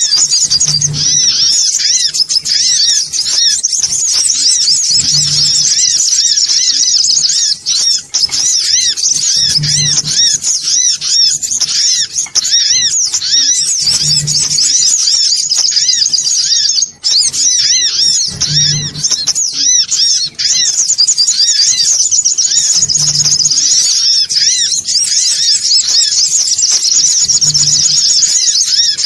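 Male sunbird calls: a loud, unbroken stream of rapid, high-pitched chirps and trills, as used in a lure recording to draw sunbirds in. A short low thud recurs about every four and a half seconds.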